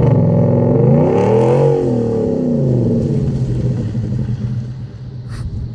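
Ford F-150 pickup's Roush exhaust: the engine idles, revs up once about a second in and drops back, then settles into a steady idle.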